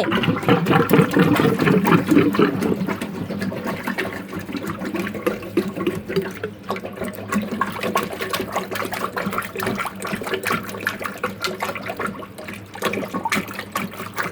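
Water bubbling and gurgling in a clogged double-sink drain, with many small pops and drips. It is loudest for the first few seconds, then settles to a steady bubbling. The drain is blocked, and water is backing up instead of draining.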